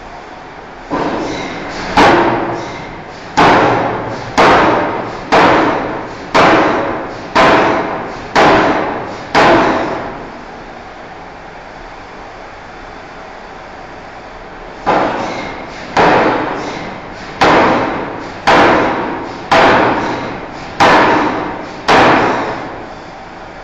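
Forging hammer striking a steel bar, about one heavy blow a second, each with a short metallic ring: a run of about nine blows, a pause of roughly five seconds, then about eight more.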